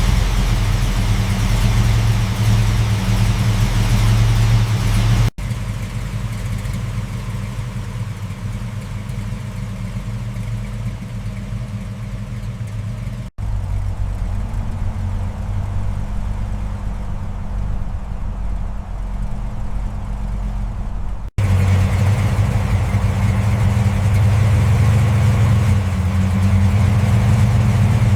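Car engine running steadily in four edited takes, with a steady low drone; the middle two takes are quieter than the first and last. In this restoration video it is most likely the rebuilt 1935 Chevrolet Master's engine running.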